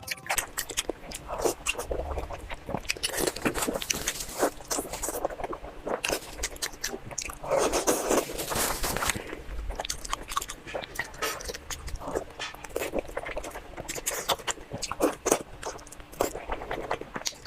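Close-up eating sounds: biting into and chewing fatty meat, with a steady run of wet clicks and smacks and a louder stretch of chewing about halfway through.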